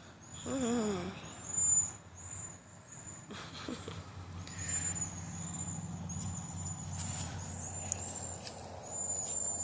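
Birds calling: thin, high-pitched whistled notes repeated about twice a second, with a short pitched voice-like sound about half a second in and a low steady hum underneath.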